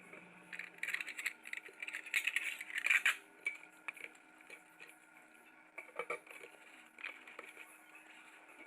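Dishes and cutlery clinking and clattering, busiest in the first three seconds, then a few scattered knocks.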